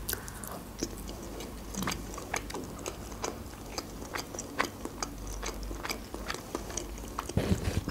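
Close-up chewing of juicy grapefruit flesh: many small wet clicks and smacks of the mouth, several a second, scattered throughout.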